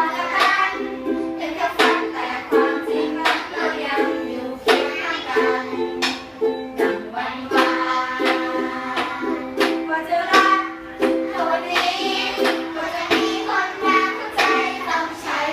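Ukulele strummed in a steady rhythm of chords, with voices singing along.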